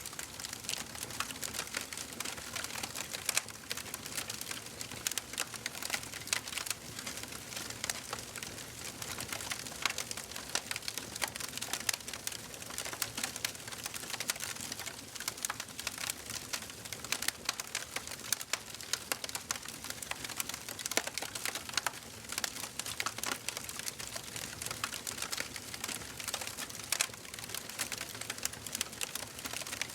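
Wood fire burning in a fireplace: steady crackling, with many small irregular pops and snaps over a soft hiss.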